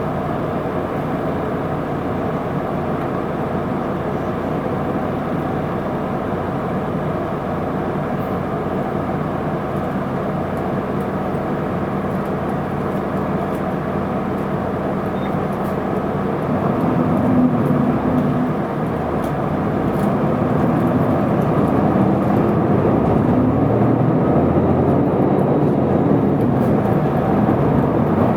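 Isuzu Erga city bus's diesel engine running steadily. From about sixteen seconds in, its pitch rises and falls several times as the bus accelerates.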